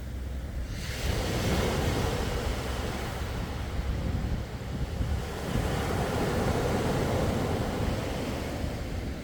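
Sea waves washing ashore: one surge of surf builds about a second in, eases off, and a second surge follows just after the middle, over a steady low rumble.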